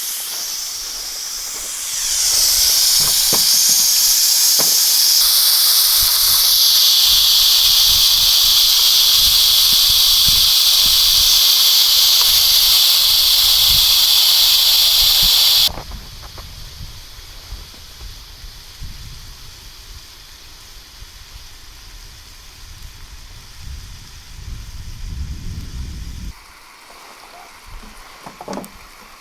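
Steam hissing loudly and steadily from an Afghan kazan pressure cooker as it vents pressure, cutting off suddenly a little past halfway, followed by a quieter low rumbling noise.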